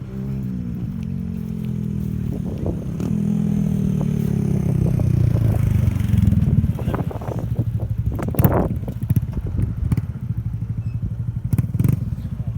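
Motorcycle engine whose pitch slides slowly down over the first half, then settles into a fast low pulsing rumble, broken by a few sharp cracks, the loudest about eight seconds in.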